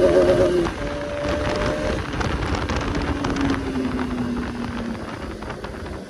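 Bajaj Pulsar RS200's single-cylinder engine running at speed: its note breaks off briefly under a second in, then the revs slowly fall as the bike slows. Wind rushes over the microphone throughout.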